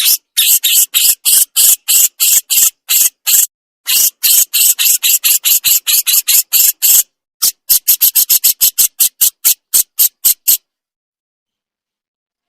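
A burung jenggot giving its besetan: a long run of short, harsh rasping calls, about four to five a second with a few brief breaks, ending abruptly about ten and a half seconds in.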